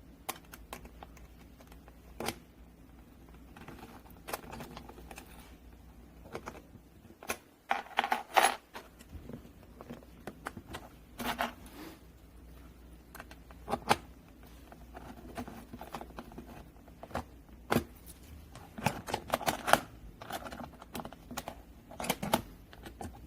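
Key lock and latches of an aluminium tool case being worked by hand: a key going in and turning, with scattered metallic clicks, snaps and short rattles. The busiest clusters come about eight seconds in and again near twenty seconds.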